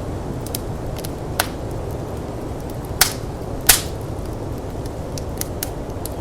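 Firepit wood fire crackling, with scattered sharp pops, the loudest about three and three and a half seconds in, over the steady low rush of snowstorm wind.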